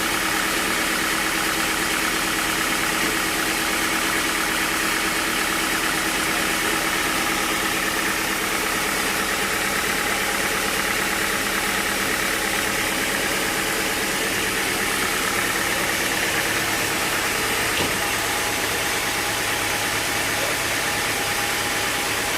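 Sawmill machinery running steadily: an engine or motor with an even hum of several steady tones and no change in load. One faint click about eighteen seconds in.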